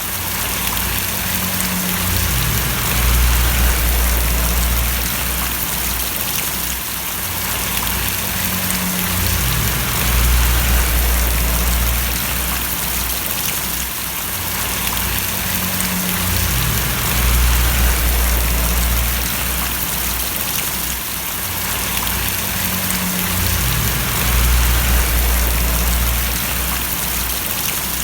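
Steady rain falling, an even hiss of drops. Under it a deep low rumble swells and fades about every seven seconds.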